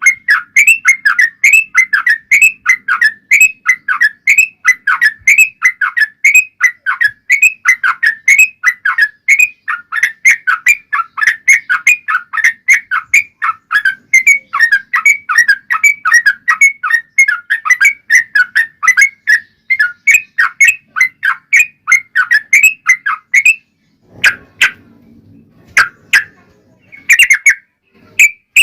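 Yellow-vented bulbuls (trucukan) calling in a long, fast run of short bubbly notes, about four a second. This is the long rolling 'ropel' song of birds in a fighting bout. It breaks off near the end, leaving a few scattered notes.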